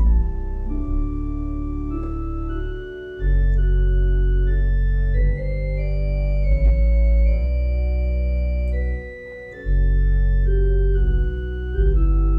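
Organ playing slow, sustained chords over deep bass pedal notes; the bass drops out briefly twice.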